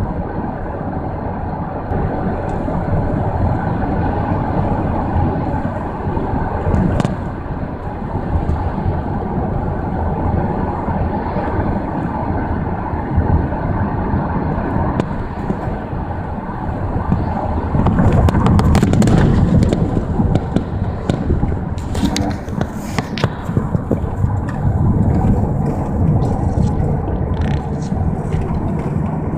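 Steady road and engine noise of a moving car, heard from inside as a rider, growing louder for a few seconds about two-thirds of the way through.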